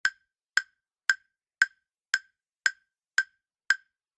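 Countdown timer sound effect ticking: short, sharp, identical ticks, about two a second.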